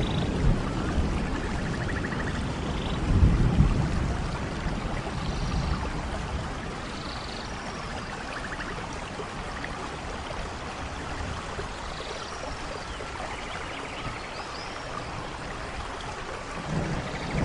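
Steady rain, with a low rumble of thunder about three seconds in that fades away; a few faint high chirps sound over the rain.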